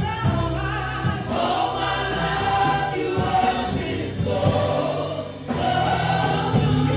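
A choir of voices singing a gospel worship song over a steady bass accompaniment, with a brief dip about five seconds in.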